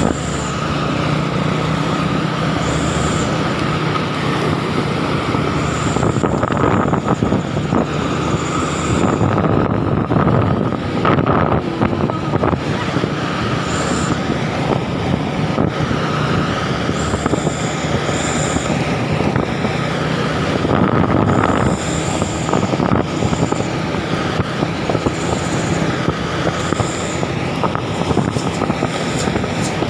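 Truck engine running steadily with a continuous low hum, with short faint high chirps now and then.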